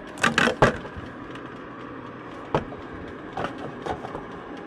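Sharp clatters and clicks of small containers being handled, a quick loud cluster near the start and a few single clicks later, over a steady mechanical hum.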